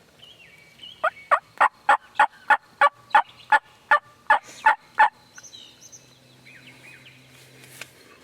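Turkey yelping: a loud run of about fourteen evenly spaced yelps, about three a second, starting about a second in and stopping about five seconds in. Faint songbird chirps sound around it.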